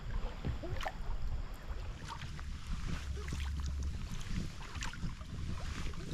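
Kayak paddle strokes splashing and dripping in river water, with scattered small splashes over a steady low rumble of wind on the microphone.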